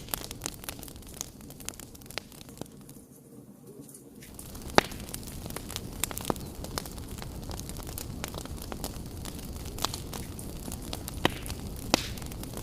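Fire in a fireplace crackling, with irregular sharp pops and snaps over a steady low rumble and hiss. It dips quieter for about a second around three to four seconds in, and the loudest snap comes just before five seconds.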